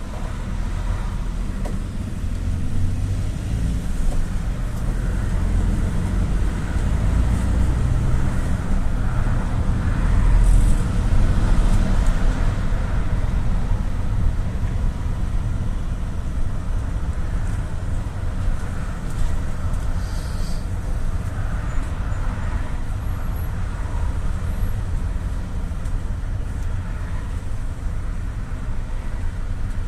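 GAZ-A68R52 Gazelle City minibus driving, heard from inside the cabin: a steady low engine and road rumble that swells a little about ten seconds in.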